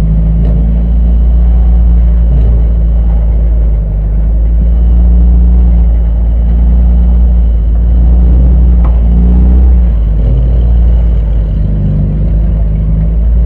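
Four-cylinder front-wheel-drive enduro race car's engine running at low revs, heard loud from inside the stripped cabin. Its pitch steps up and down slightly as the throttle changes while the car rolls slowly.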